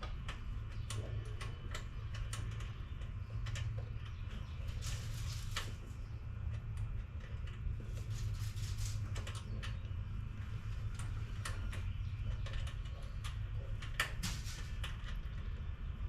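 Scattered clicks and light metal ticks at irregular intervals from hands and tools working on parts of a car engine, over a steady low hum.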